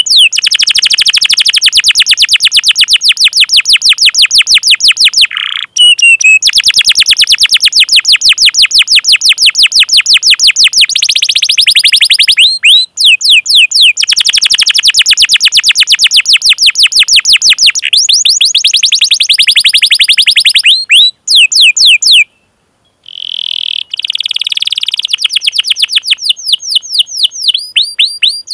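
Domestic canary singing long rolling trills of rapid, repeated downward-sweeping 'cuit-cuit' chirps, broken by a few brief pauses, the longest a little past the middle.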